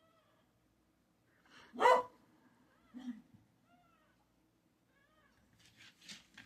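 Young kittens mewing: several small, thin mews and one much louder mew about two seconds in.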